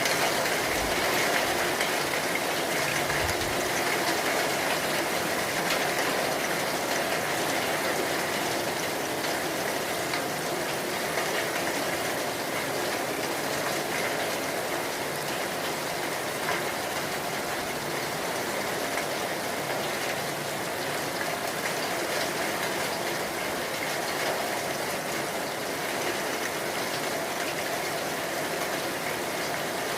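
Rain falling steadily during a thunderstorm, an even hiss that holds at a constant level throughout.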